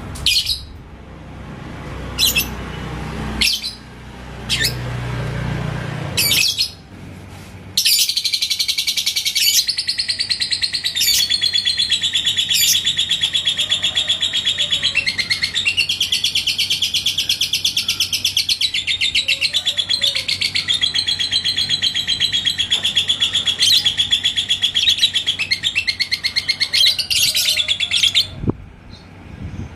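Yellow lovebird singing: a few short sharp chirps, then about eight seconds in one long, very rapid trilling chatter (the 'ngekek' song) that runs unbroken for about twenty seconds and stops shortly before the end.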